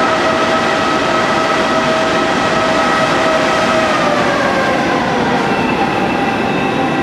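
Electric train running through an underground station: steady rolling rail noise with a whine on a few pitches, the whine gliding down in pitch about four seconds in.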